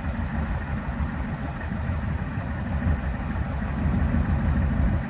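A 1968 Camaro's V8 engine with Hooker headers idling, a steady exhaust rumble that grows a little louder after about three and a half seconds.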